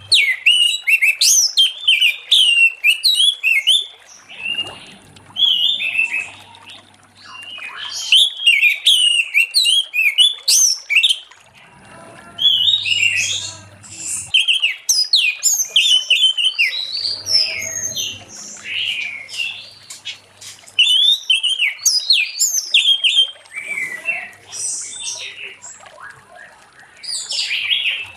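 Orange-headed thrush singing a loud, varied song of rapid sliding whistled phrases, delivered in bouts of a few seconds with short pauses between them.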